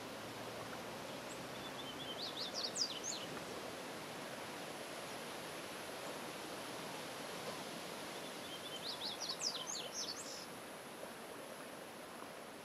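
A songbird sings twice, each a short phrase of a few soft notes running into quick, high, up-and-down chirps, the second phrase about six seconds after the first, over a steady outdoor hiss.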